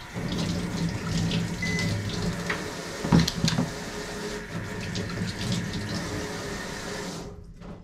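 Kitchen tap running into the sink, with a few knocks of something handled under the stream about three seconds in; the water is shut off near the end.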